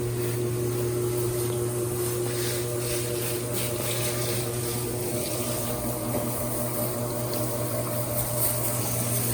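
Water spraying as a boat is rinsed off with fresh water, over a steady machine hum.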